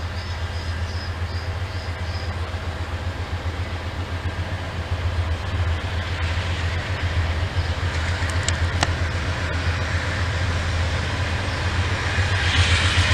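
Norfolk Southern freight train passing: a steady low drone, with wheel-on-rail noise building over the second half and loudest near the end, and a few sharp clicks in the middle.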